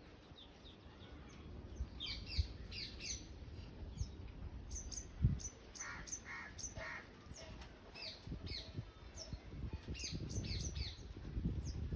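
Birds chirping: many short, high, downward-sweeping chirps, with a few lower repeated calls about halfway through, over a low rumble with occasional soft thumps.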